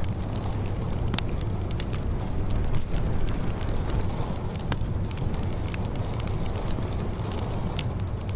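Fire crackling with many irregular sharp pops over a steady low rumble.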